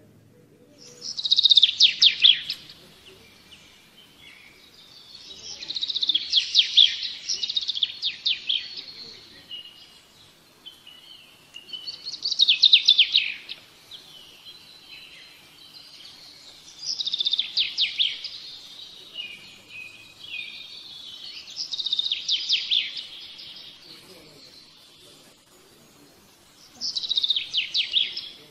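A songbird singing in loud, rapid trilled phrases, six in all and about five seconds apart, each falling slightly in pitch, with softer twittering in between.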